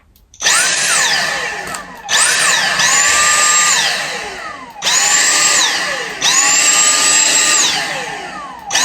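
Dyson V6 cordless vacuum's motor switched on and off with its trigger several times: each run spins up fast to a high whine, holds briefly, then falls away in pitch as it winds down.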